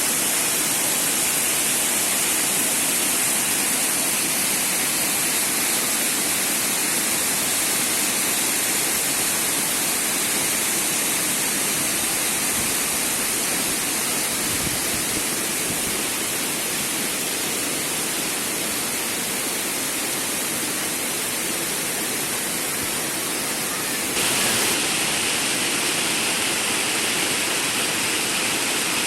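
Shumka mountain waterfall: falling water rushing steadily. Near the end the sound changes abruptly and gets slightly louder.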